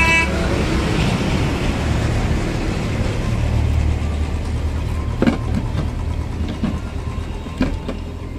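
Diesel lorry engine running low and steady, with a brief horn toot right at the start and a few sharp knocks or rattles in the second half.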